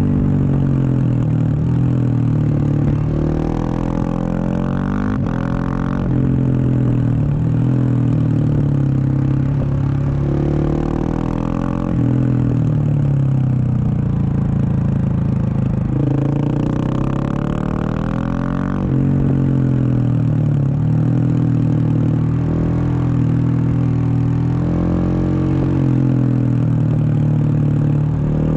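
Husqvarna 701 Supermoto's single-cylinder engine through a Wings exhaust, ridden on the road. It repeatedly accelerates, its note rising through the gears, then rolls off so the note drops back, with the throttle opening up again about every six seconds.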